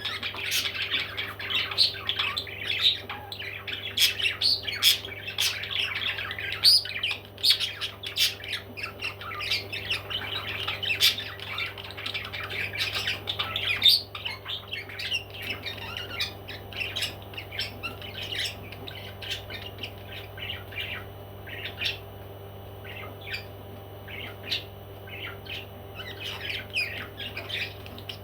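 Parrots squawking in rapid, short calls, dense in the first half and thinning out after about halfway. A steady low hum runs underneath.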